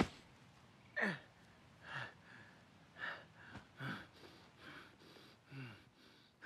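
A wounded man's quiet pained gasps and short whimpering breaths, about one a second, some of them voiced and falling in pitch. They are the sounds of a man hurting from a bleeding shoulder wound.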